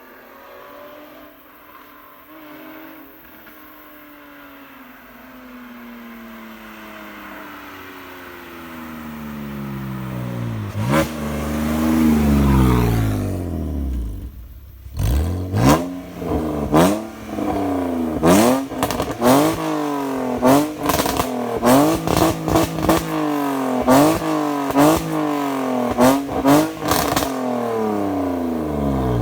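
BMW E46 328i's 2.8-litre inline-six on a straight-piped exhaust with no catalytic converters and no muffler, running loud, its pitch sweeping up and down as it grows louder. After a brief break, repeated climbs in engine pitch each end in a sudden drop, with sharp cracks among them.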